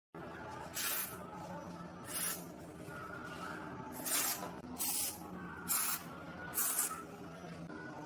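Six short hissing sprays, each about a quarter second long, coming at irregular intervals over a faint steady background.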